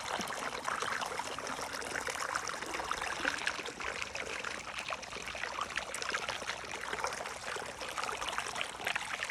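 Water running along a small watercourse: a steady trickling and gurgling flow.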